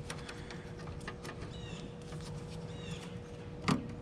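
Short high chirps, twice, over a steady hum, with light clicks and a sharp tap near the end.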